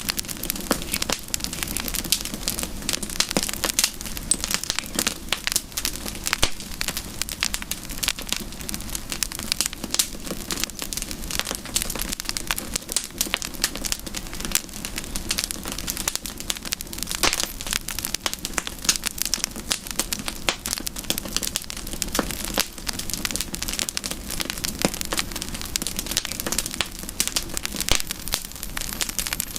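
Campfire crackling: a dense, unbroken run of sharp snaps and pops over a steady low rush of burning.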